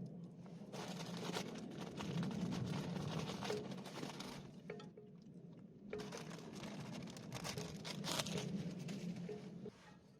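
Wood campfire crackling, with irregular sharp pops over a steady low rush of the burning fire; the sound drops away abruptly near the end.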